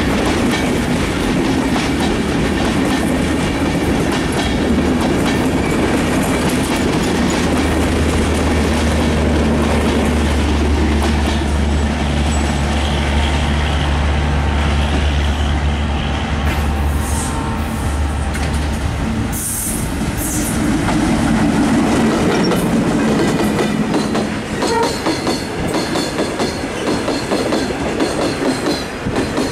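Two broad gauge trains passing each other on a double line. A diesel locomotive's engine drones steadily and cuts off a little past halfway. Near the end, freight wagons roll past with a rhythmic clickety-clack of wheels over the rail joints.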